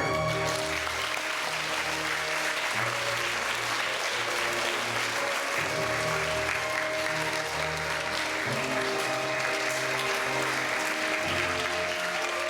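Audience applauding over background music.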